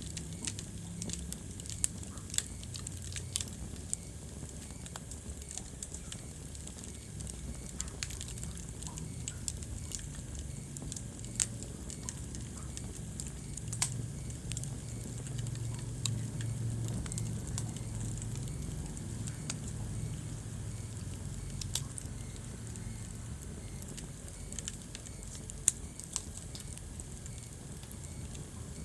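Wood fire in a fireplace crackling, with sharp pops at irregular intervals over a low, steady rumble of the burning.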